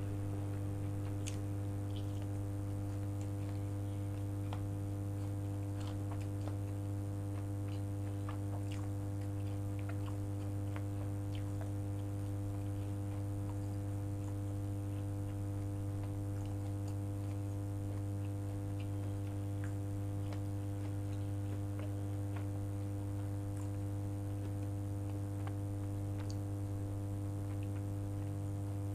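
A person chewing food, with soft scattered mouth clicks, under a loud, steady low hum that is the strongest sound throughout.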